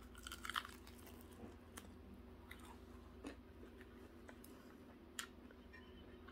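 Someone biting into a crispy battered fried chicken wing: a quick crunch in the first half second, then faint chewing with a few soft clicks.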